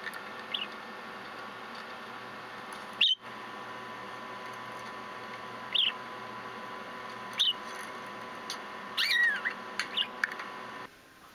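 Budgerigar giving short, high single chirps every couple of seconds, with a longer chattering call about nine seconds in that falls in pitch. Under it runs a steady background hiss with a faint hum.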